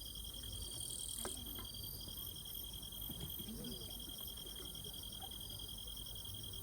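Summer-night insects, crickets, chirring: several steady high trills, one of them pulsing at a few beats a second, with faint distant voices murmuring under them.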